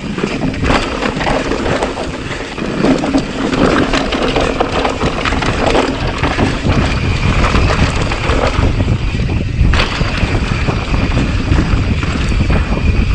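A 2018 Rocky Mountain Slayer mountain bike riding down a rough dirt and rock trail at speed. Wind rushes over the camera microphone, while the tyres and frame rattle and knock over the terrain, with a sharper knock near the end.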